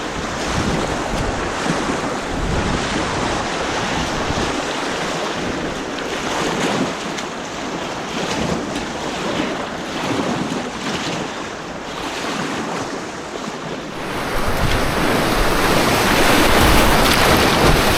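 Rushing white water splashing around a kayak on an artificial white-water course, a steady loud hiss and wash with irregular splashes. It grows louder and hissier about fourteen seconds in.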